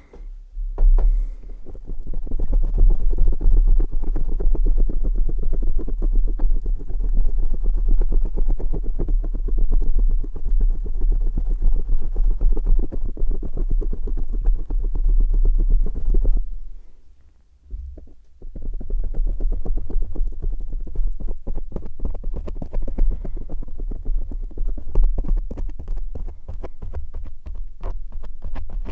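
Close-up contact noise on an ASMR microphone: fast, dense wet crackling and rubbing right on the mic, with heavy low thumps from the contact. It breaks off briefly a little past halfway, then carries on.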